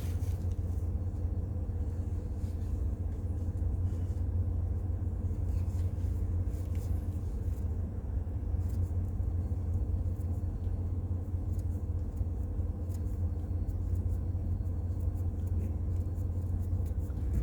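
Steady low rumble with two faint, steady humming tones above it. Faint light ticks come in about halfway through.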